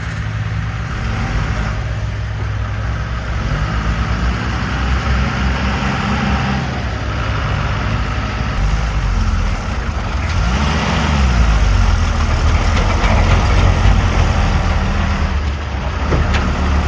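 A heavy vehicle engine running, its pitch rising and falling several times as it is revved, louder in the second half.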